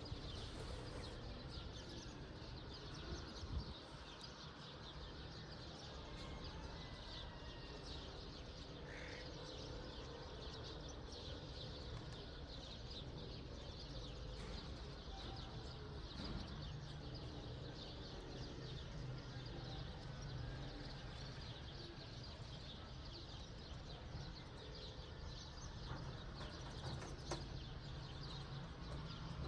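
Outdoor dawn ambience of many small birds chirping continually, over a steady low background rumble.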